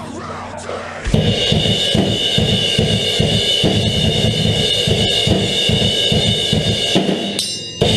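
Drum kit played fast, with rapid kick-drum strokes under a steady wash of cymbals, starting abruptly about a second in. It breaks off briefly near the end before picking up again.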